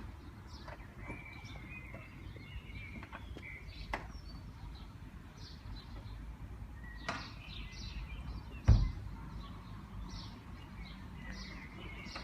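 Birds chirping over a steady low outdoor rumble, with a few light clicks and one loud thump about nine seconds in.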